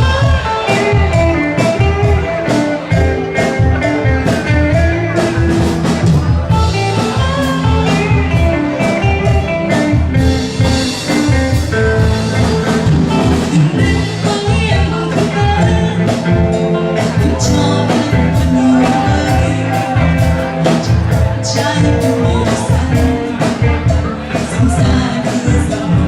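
A band playing a Vietnamese pop song, with a steady drum beat under sustained melodic parts.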